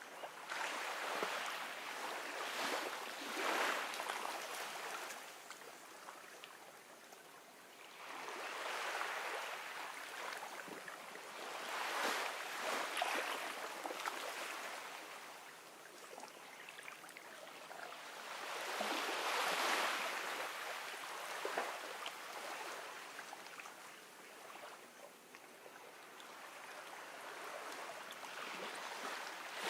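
Gentle ocean waves washing onto a beach, swelling and fading in slow surges about every seven seconds.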